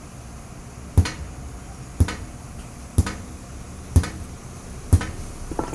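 Five sharp knocks in an even rhythm, one a second, then a couple of smaller ones near the end, over a low steady hum.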